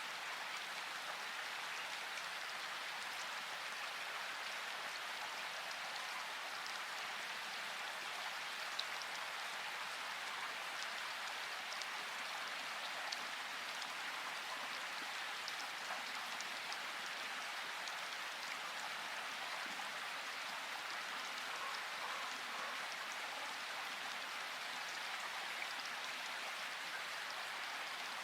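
Steady rain falling, an even hiss of drops with a few sharper individual drop ticks standing out now and then.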